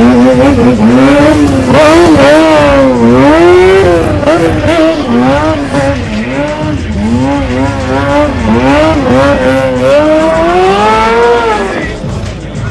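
Stunt motorcycle engine revved hard and repeatedly, its pitch climbing and falling every second or so, with one longer climb and drop near the end.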